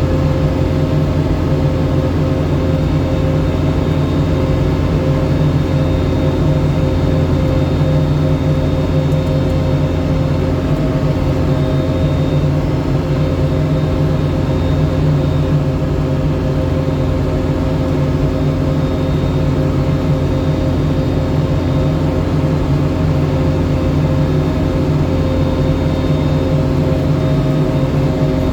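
Engine of a snow-clearing machine running steadily at an even speed, a loud continuous hum that never changes pitch.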